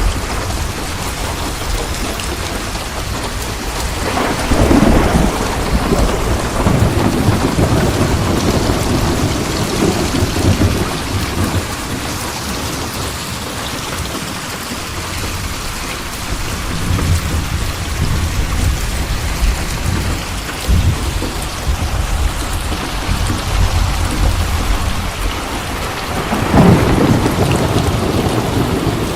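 Steady heavy rain with rolling thunder: rumbles swell a few seconds in and again near the end, with a quieter lull in between.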